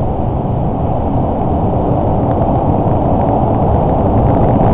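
Interior noise of an express train running through the Seikan undersea rail tunnel: a loud, steady rumble of wheels on rail and rushing air inside the passenger car, with a faint high steady whine over it.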